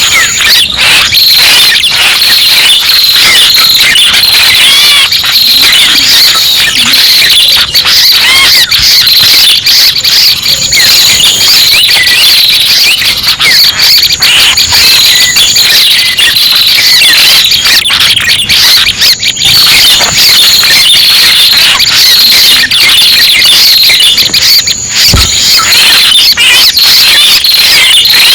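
Bird-luring (pikat) call recording for the red-headed prenjak: a loud, unbroken stream of rapid, high-pitched chirps and squeaks, many calls overlapping.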